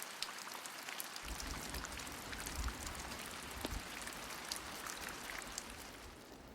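Steady rain falling through a heavy forest canopy: a soft hiss with many separate drops ticking close by.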